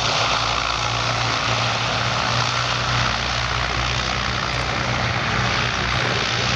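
Bristol Blenheim's twin Bristol Mercury radial engines running steadily: a loud, even rush of propeller and engine noise over a low steady drone, which weakens near the end.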